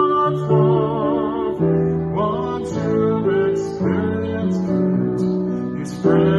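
A song: a strummed acoustic guitar with a voice singing over it.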